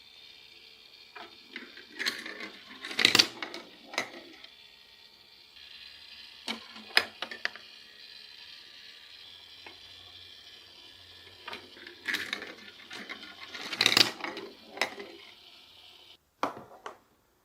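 Marbles rolling along a block marble run track with a steady rolling hiss, and two bursts of rapid clacking as they drop and strike the pieces and each other. A few single clicks fall in between, and there is one more near the end before the sound cuts off.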